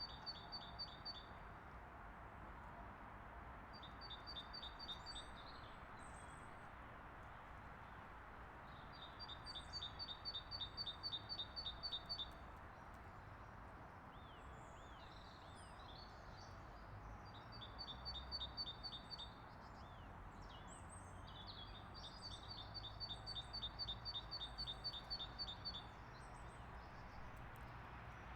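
A songbird singing a fast trill of short, evenly spaced high notes, repeated five or six times with pauses of a few seconds between, over a steady background hiss.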